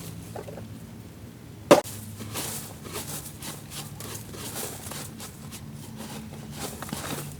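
Restoration workshop work: one sharp loud strike a little under two seconds in, then a run of quick clicks and scrapes over a steady low hum.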